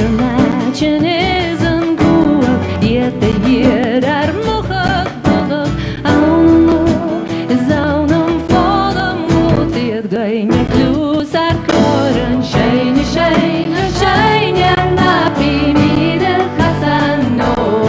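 A woman singing a Gaelic song with vibrato, accompanied by a traditional folk band.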